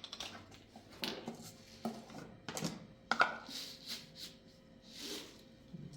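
Irregular knocks, clinks and rustles of objects being handled, with half a dozen sharp knocks spaced roughly a second apart.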